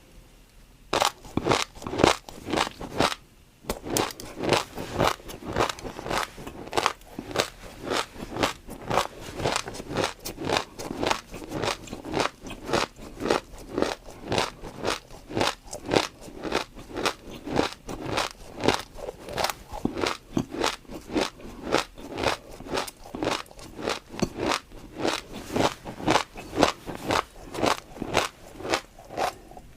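Close-miked chewing of crunchy food: a steady run of crisp crunches, about two a second, starting about a second in.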